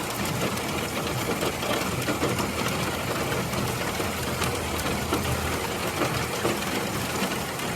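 Hail pelting a hard surface: a loud, dense, rapid clatter of small impacts that cuts off suddenly at the end.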